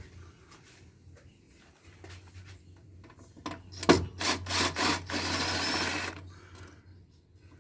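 A few sharp knocks and clicks, then about a second of scraping, from parts or tools being handled during the teardown. A low steady hum runs underneath.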